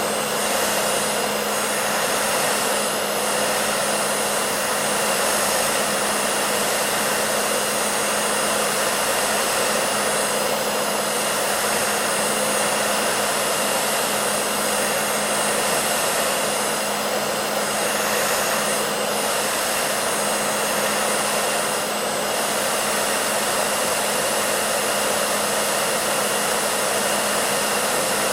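Hair dryer running continuously at a steady setting: an even rushing of blown air with a steady low motor hum underneath.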